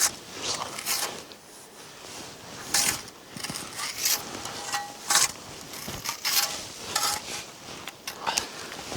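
Footsteps crunching in snow, slow and irregular, about one every second, as someone moves on a snowy slope.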